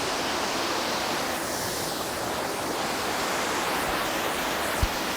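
Waterfall cascading: a steady rush of falling water, with a brief low bump near the end.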